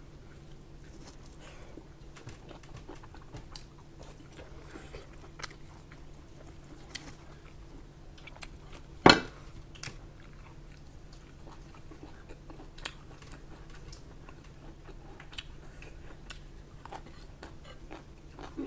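Close-miked chewing and biting of a mouthful of rice and pork with bamboo shoot, eaten by hand, with many small wet clicks and crunches. One much louder sharp click comes about nine seconds in.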